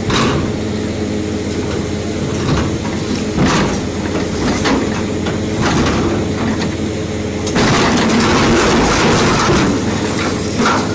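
Heavy diesel machinery running with a steady low engine drone and scattered clanks and knocks; about seven and a half seconds in, a louder rushing, grinding noise sets in and continues.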